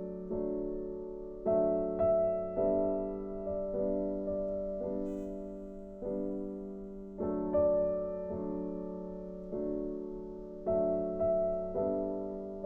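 Background piano music: slow, soft chords struck about once a second and left to ring out.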